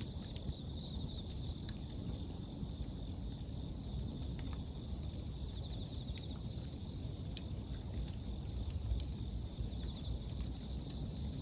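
Japanese bell crickets (suzumushi) singing a high, pulsing trill, over a wood bonfire crackling with scattered sharp pops and a steady low rumble.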